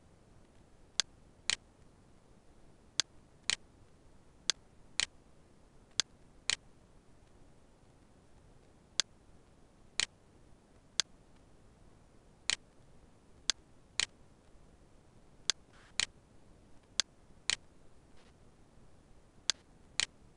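Computer mouse clicks, sharp and short, mostly in pairs about half a second apart with a few single clicks, over a faint steady hiss.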